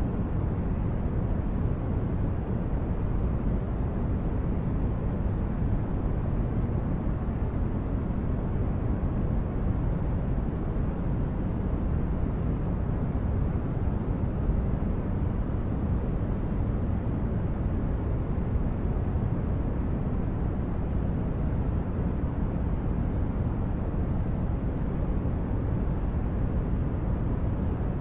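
Spaceship ambience soundscape: a steady, low rumble of brown-noise-like sound like a starship's engines, with no distinct events.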